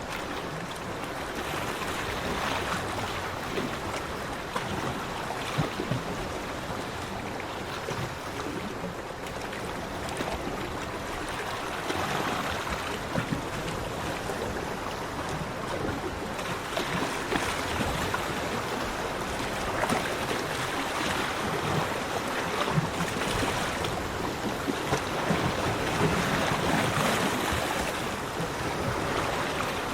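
Sea waves breaking and washing onto a beach: a continuous rushing surf that swells every few seconds as each wave comes in.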